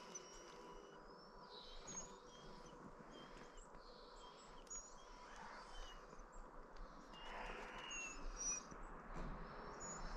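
Faint chirping of small birds: many short, high chirps scattered through a quiet outdoor background.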